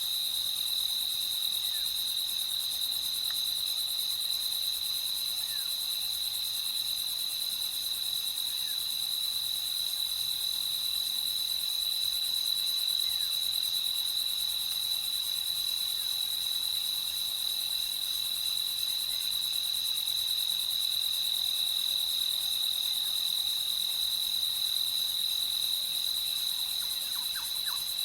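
Crickets chirping in a steady, continuous chorus, with a few faint short calls from other night animals.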